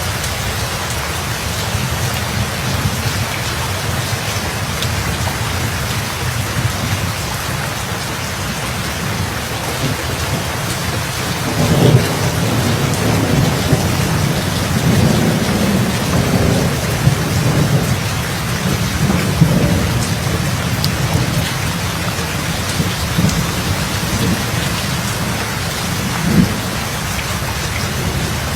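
Steady heavy rain hissing, with a roll of thunder that breaks sharply about twelve seconds in and rumbles on with several swells for over ten seconds before fading.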